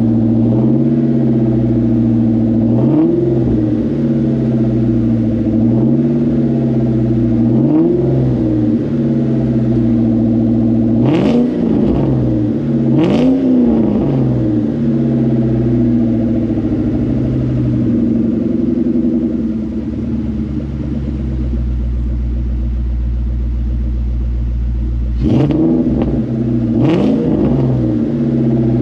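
2004 Mustang Mach 1's V8 running through a Borla stainless cat-back exhaust with the cats deleted, idling with throttle blips: a few light revs early on, then two sharp pairs of revs about eleven seconds in and again near the end. The owner likes the low tone but finds it a little too loud.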